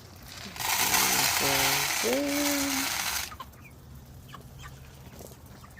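Backyard chickens clucking. Starting about half a second in is a loud rustling hiss lasting nearly three seconds, with a short low call that rises in pitch partway through.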